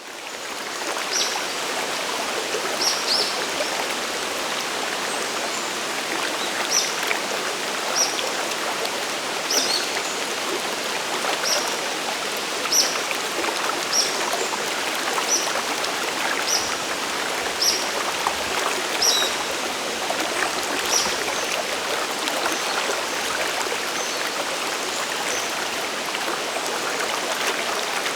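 Waterfall and mountain stream rushing steadily. Over it, a bird repeats a short, high call about every second or so, fading out in the last third.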